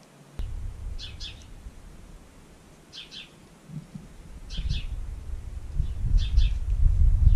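A small bird calling: a short two-note chirp repeated five times, about every second and a half. Under it a low rumbling noise swells up from about halfway through and becomes the loudest sound.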